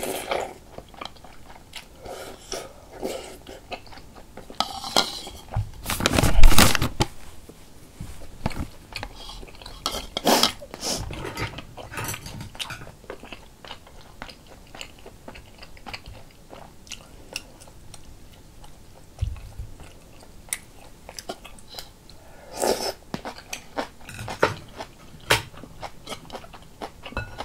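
Close-miked eating: chewing and biting with crunchy bites, and now and then a light clink of chopsticks or a spoon against the glass bowl. The loudest mouthful comes about six seconds in.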